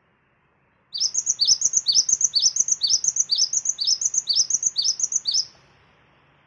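Cinereous tit (gelatik batu) song: a quick, high whistled phrase repeated about twice a second, some ten times over, starting about a second in and cutting off suddenly. It is a lure recording, played to provoke other birds into singing.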